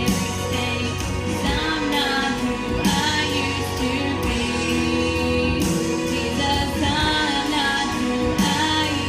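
Music: a woman singing a held, sustained vocal line over instrumental accompaniment with a steady beat.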